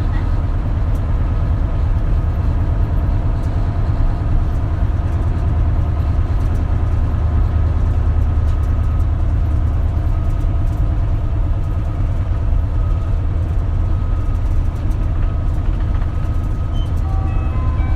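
Inside an Isuzu Erga (KL-LV280L1) route bus: the diesel engine and road noise make a steady, deep drone with a few faint higher tones above it.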